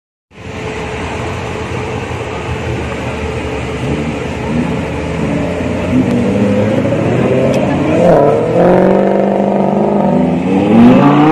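Supercar engines revving and accelerating past, over a steady hum of engines and traffic. From about halfway through, the engine pitch climbs in several rising revs, and the loudest one comes near the end.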